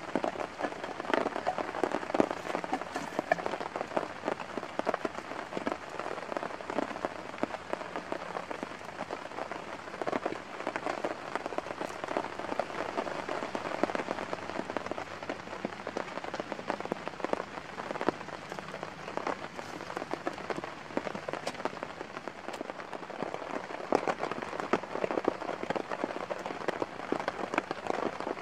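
Steady rain falling in the forest, with many close drops ticking sharply on surfaces nearby.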